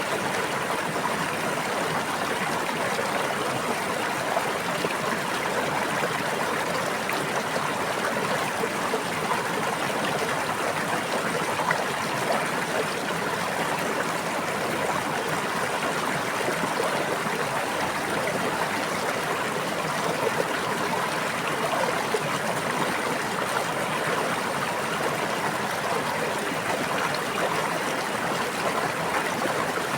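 Running water of a stream or brook babbling steadily, an even rush with no pauses or changes.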